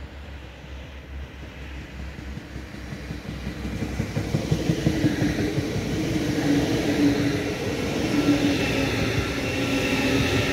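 Deutsche Bahn ICE electric high-speed train running through a station without stopping: the sound grows louder over the first few seconds as it approaches, then becomes a steady rushing of wheels on rail as the carriages pass, with a low hum and a higher whine running through it.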